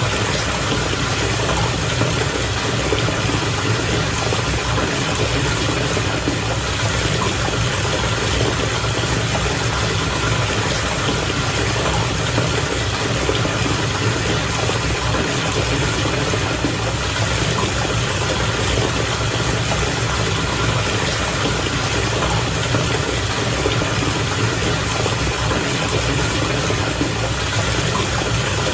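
Bath water bubbling steadily and continuously, with a low motor-like hum underneath.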